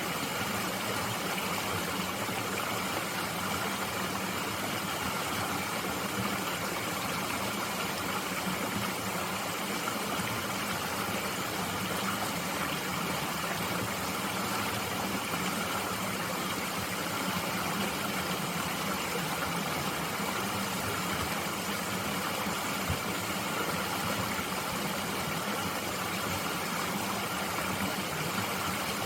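Mountain stream water flowing, a steady, unbroken rush.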